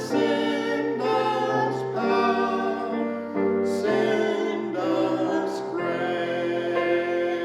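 Singing with piano accompaniment: a hymn, with sustained notes changing about once a second.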